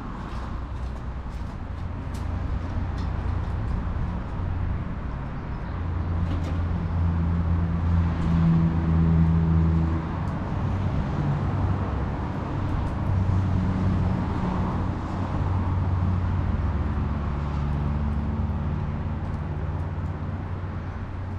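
Motor vehicle engine running, a low hum that swells and fades, loudest about halfway through, with scattered faint sharp clicks over it.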